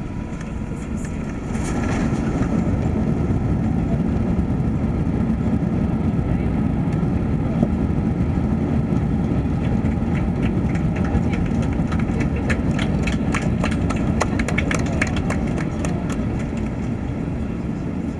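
Airbus A380 cabin during the landing roll: the engine and runway roar jumps sharply about a second and a half in and stays loud, with a fast rattling of cabin fittings in the second half, easing slightly near the end.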